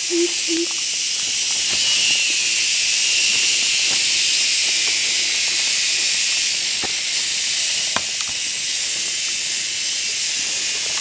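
Steady, dense high-pitched hiss of a jungle insect chorus, with a couple of faint clicks past the middle.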